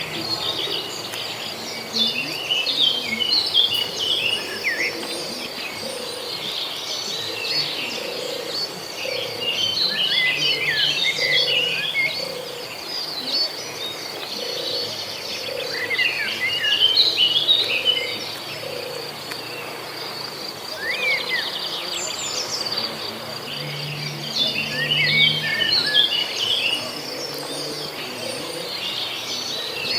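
A bird singing in bursts of quick, chirpy phrases a few seconds apart, over a steady high-pitched insect trill.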